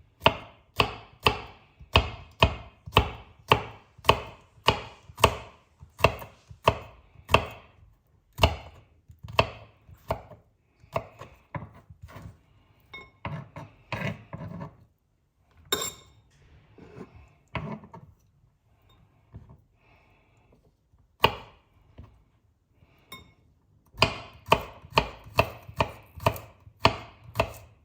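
Kitchen knife chopping garlic cloves in steady strokes about two a second. The strokes thin to scattered chops and faint scraping midway, then pick up again near the end.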